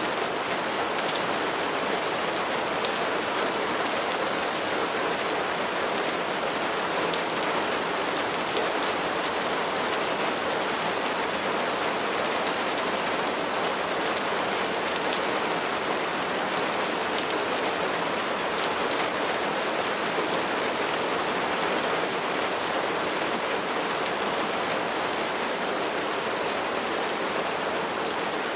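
Steady rain falling, a dense even hiss of drops on surfaces with faint individual drop ticks.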